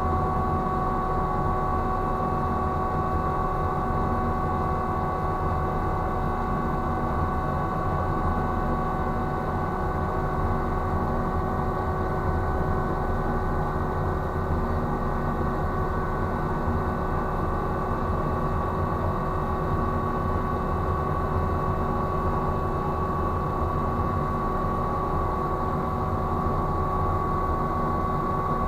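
Ship's machinery running steadily: a constant low rumble with several fixed whining tones over it.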